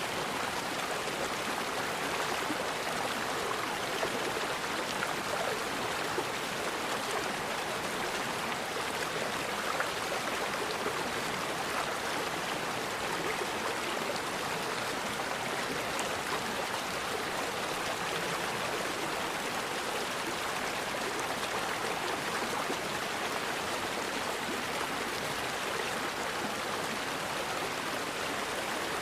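Forest river flowing: a steady, even rush of water with no breaks.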